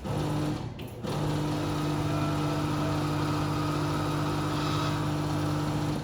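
Electric sewing machine running at a steady speed, stopping briefly about a second in, then running on.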